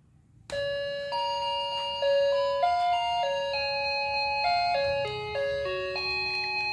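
Background music starts about half a second in: a simple melody of bright, chime-like notes.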